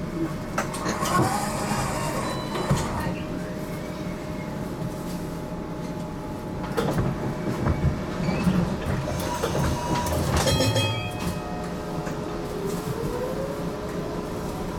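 HTM GTL8 tram running, heard from inside the car: a steady rolling rumble with scattered clicks from the wheels on the track. A burst of clicks comes about ten and a half seconds in, and a rising whine near the end.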